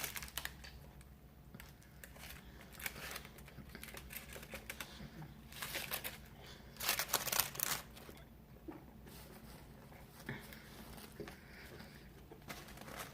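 Close-up eating sounds: scattered clicky chewing and mouth noises, with short bursts of rustling that are loudest about seven seconds in.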